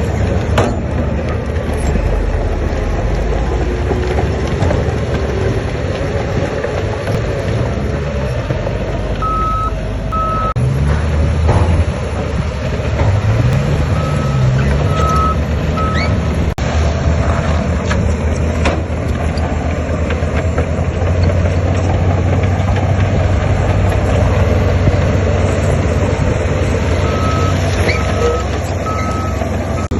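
Heavy diesel earthmoving machinery running steadily, with an engine revving up briefly about twelve seconds in. A reversing alarm sounds in three short runs of two or three beeps.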